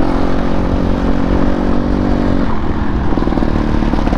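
Off-road motorcycle engine running under load at speed, over a steady rush of noise from the gravel road and wind; about two and a half seconds in its note changes.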